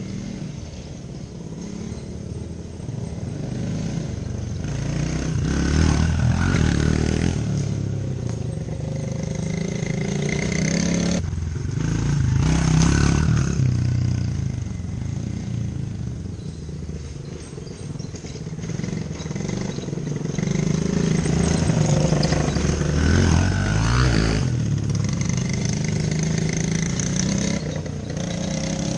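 Small off-road engine running and revving, its pitch rising and falling repeatedly, growing louder several times as the machine is ridden.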